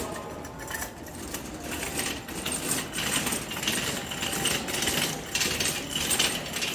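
Shopping cart being pushed, its wheels and wire basket rattling noisily.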